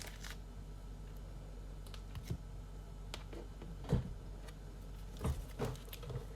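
Trading cards being handled and sorted on a tabletop: a few scattered soft taps and clicks, the loudest about four seconds in, over a steady low hum.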